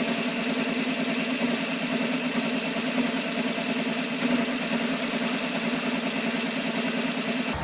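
1957 Ford Thunderbird V8 idling steadily with both idle mixture screws turned all the way in, and it does not stall. The owner takes this to mean the original carburettor metering plate is no good.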